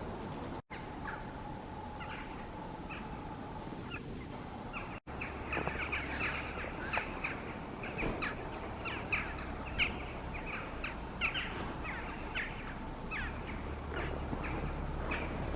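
Many birds giving short, repeated calls, sparse at first and much denser after about five seconds, with two brief breaks in the sound.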